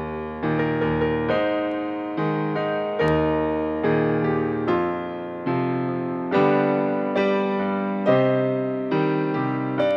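Solo piano playing a pop song arrangement: chords struck about once a second, each ringing and fading before the next.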